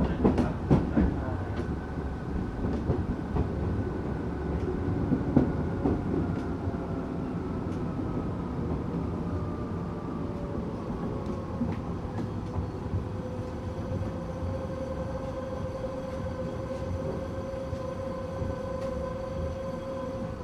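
Tokyu 8500 series train with Toyo-made traction motors running, heard from on board. The wheels clatter over rail joints in the first few seconds, over a steady rumble. Partway through, the motor whine slides down in pitch, then holds a steady tone.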